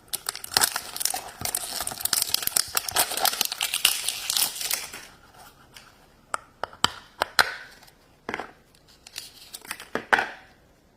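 Toy packaging being torn open and crinkled by hand, a dense crackling rustle for about five seconds, then scattered crinkles and clicks as the contents are handled.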